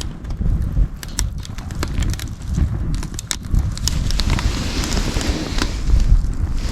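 Wood campfire crackling with scattered sharp pops, over a low rumble of wind buffeting the microphone; a stronger gust brings a hiss through the middle.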